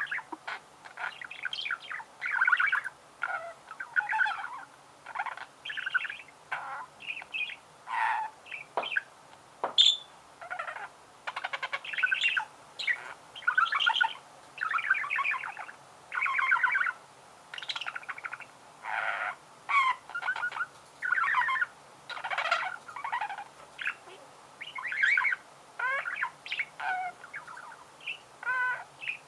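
Budgerigar warbling: a run of short chattering, buzzy phrases with quick chirps and brief pauses between them.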